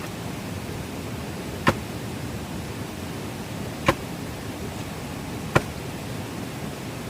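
Three sharp knocks, about two seconds apart, over a steady hiss.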